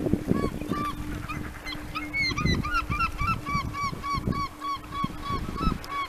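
A bird calling in a fast series of honking notes, about three a second, from about half a second in, over gusty wind noise on the microphone. Under it the fog horn's low steady tone carries on faintly until about five seconds in.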